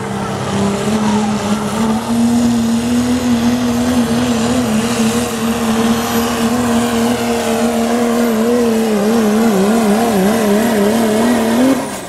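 Diesel pulling truck running flat out down the track, a steady high engine note that wavers near the end and then cuts off suddenly.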